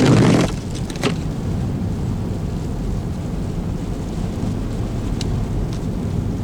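Car driving, heard from inside the cabin: a steady low rumble of engine and tyre noise. It opens with a brief loud rush of noise and a sharp click about a second in.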